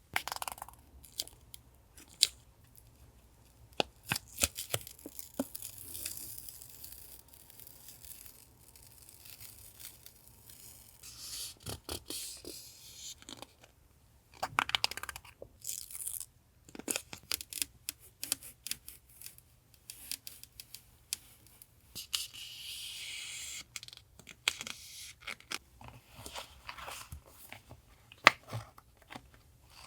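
Washi masking tape being peeled from the roll and torn, with paper rustling and small sharp clicks and taps of handling.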